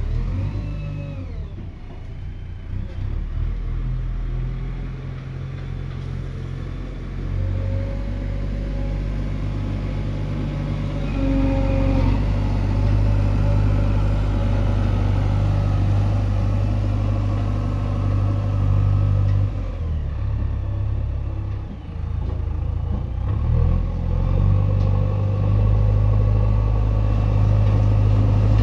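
Diesel engine of a JCB 3DX backhoe loader running, its speed and loudness rising and falling through the stretch, with a few short higher whines over it.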